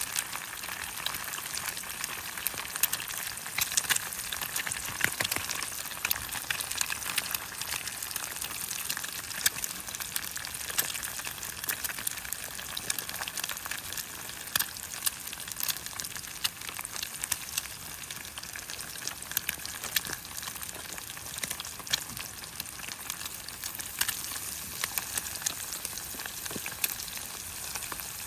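Food frying: a steady sizzle with frequent sharp pops and crackles.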